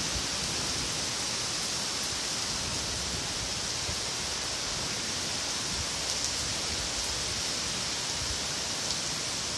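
Heavy rain pouring down steadily, an even hiss with a few faint drop ticks.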